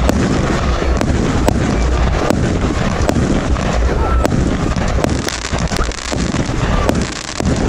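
Firework cake firing shot after shot: sharp bangs and crackles at irregular intervals over a steady rumble of wind on the microphone.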